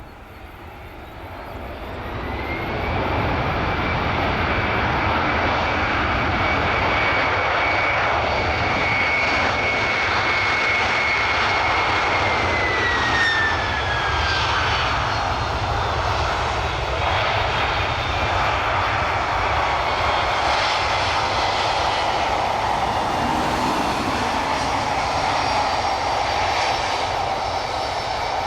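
Boeing 767-300ER airliner passing close on its landing approach: the jet engine noise swells over the first few seconds, then holds loud and steady. A high engine whine drops in pitch about thirteen seconds in as the aircraft goes past.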